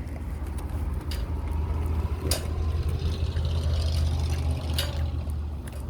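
Low rumble of a motor vehicle's engine nearby, growing louder through the middle and easing off near the end, with a couple of sharp clicks.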